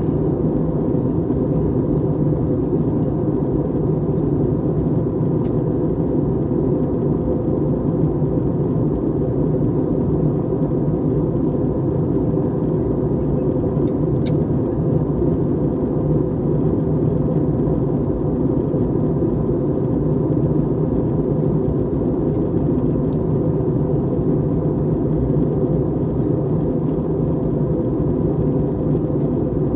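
Steady cabin noise inside an Airbus A321neo under way: an even rumble of engines and airflow with no change in level, broken only by two faint ticks.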